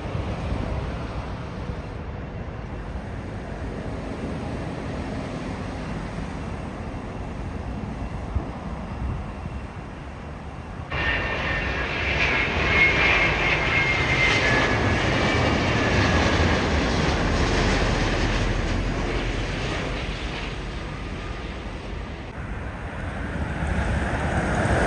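Jet airliner engines passing: a steady rumble that turns suddenly louder about halfway through, with a high whine over it, then eases off.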